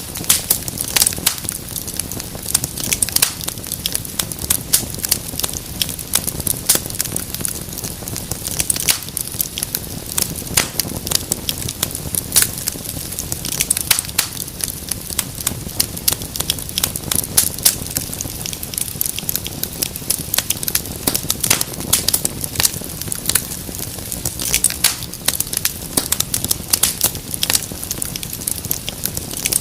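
Wood fire crackling in a fireplace: dense, irregular sharp pops and snaps over a steady hiss and low rumble of flames.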